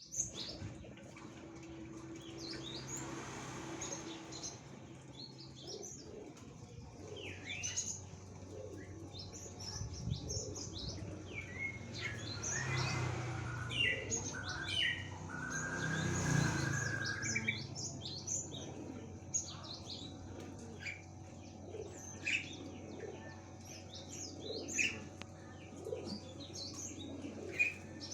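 Cinereous tits (gelatik batu) calling: a busy run of short, high chirps and whistled notes, louder and busier in the middle. This is the kind of lure call played to make wild tits answer.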